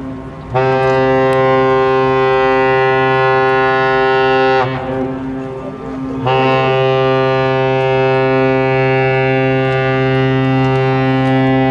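Sail training ship Nippon Maru's whistle sounding two long, deep, steady blasts, the first lasting about four seconds and the second starting about six seconds in and still going at the end. These are part of the three long blasts (長三声) that signal the ship's departure.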